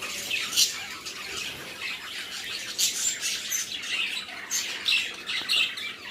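Pet budgerigars chattering continuously, with sharp squawks standing out several times.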